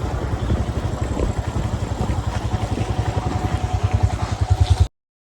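Motorcycle engine running with a rapid, low, even exhaust beat, growing a little louder toward the end, then cutting off abruptly.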